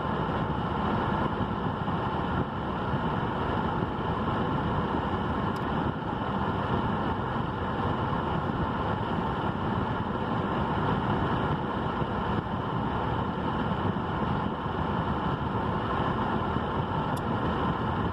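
A steady, unchanging drone of noise with a faint hum in it, engine-like.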